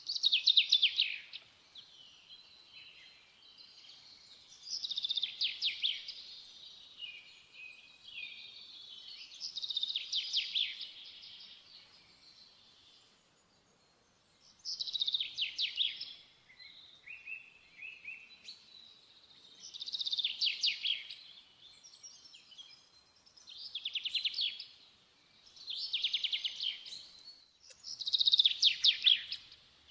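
A songbird singing about eight short, high-pitched phrases of rapid trilled notes, a few seconds apart.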